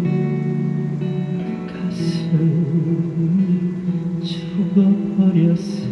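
Music: a ballad sung over guitar accompaniment, the voice holding long, drawn-out notes.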